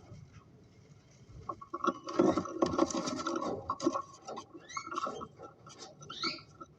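A couple of seconds of dense scratching and clicking, then a few short cockatiel chirps near the end.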